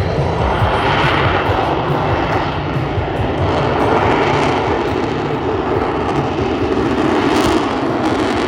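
F-35B's jet engine and lift fan running loud and steady as the jet hovers in STOVL mode, the noise swelling and easing slowly every few seconds.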